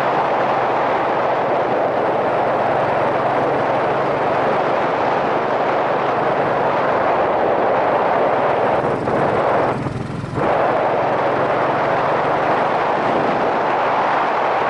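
Wind rushing over a helmet-mounted camera on a moving motorcycle, with the Yamaha SRX400's single-cylinder engine running steadily underneath. The noise drops briefly about ten seconds in, then comes back.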